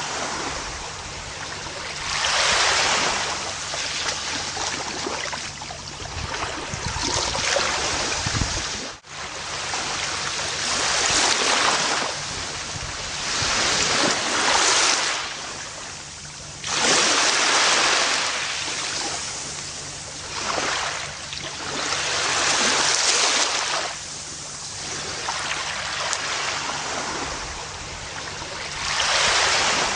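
Gentle ocean waves washing onto a beach: the surf swells and eases in repeated surges a few seconds apart. The sound dips sharply for a moment about nine seconds in.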